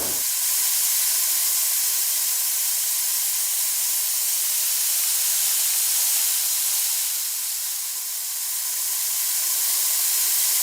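A steady, high hiss like white noise, with almost no low sound, dipping slightly about eight seconds in.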